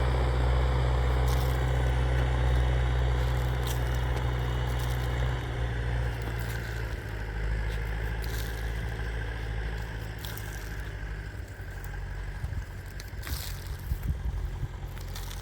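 An engine idling steadily, dropping back after about five seconds, with scattered scraping and crackling near the end.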